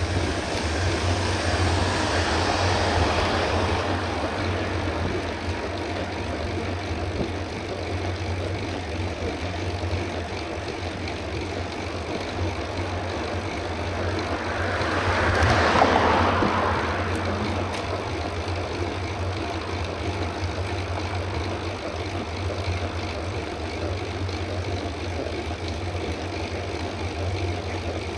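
Steady wind rush and tyre rumble from a bicycle riding at race speed, as picked up by a camera carried on the ride. The noise swells louder for a couple of seconds a little past the middle, then settles back.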